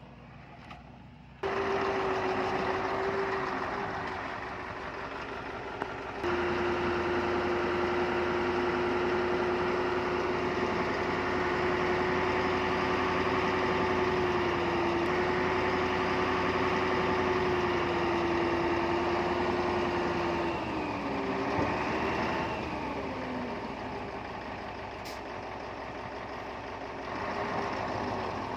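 Diesel engine of heavy earthmoving equipment (bulldozer or dump truck) running hard with a steady high whine over a low rumble. It starts suddenly about a second in, eases briefly, then comes back louder. Near the end its pitch wavers and drops as the machine throttles back.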